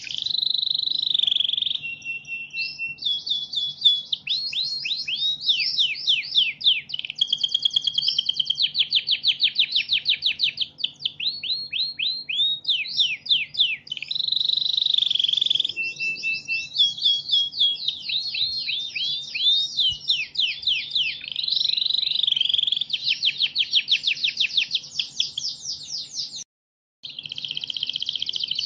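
Recorded songbird song: a long, fast, varied stream of chirps, rapid trills and sweeping whistled notes with hardly a pause. It cuts out for about half a second near the end, then resumes.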